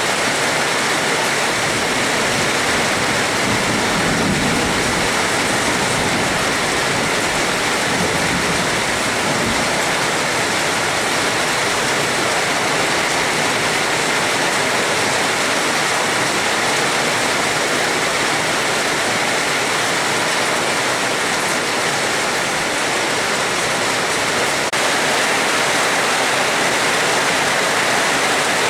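Steady heavy rainfall, a dense even hiss of water, with a faint low rumble a few seconds in.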